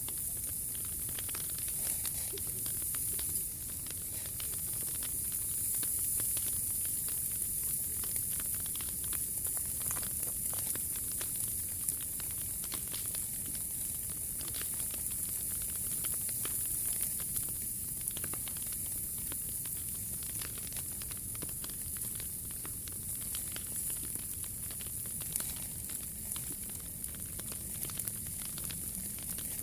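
Wood fire burning in a POMOLY T-Brick Ultra stove, crackling with many small scattered pops over a steady high hiss.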